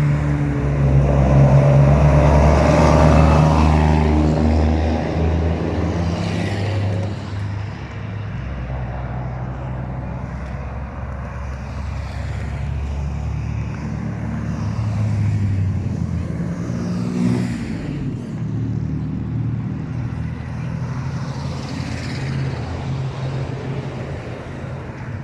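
Truck engines running in a moving convoy, loudest in the first few seconds, with several vehicles passing by.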